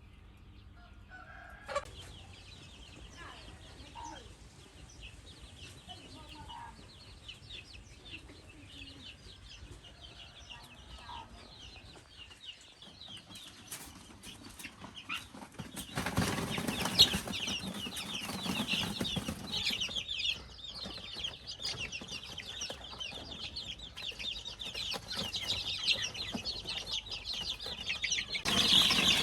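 A flock of chickens calling, with many short, high peeping calls and some clucking. Wings flap and bodies scuffle, getting louder about halfway through.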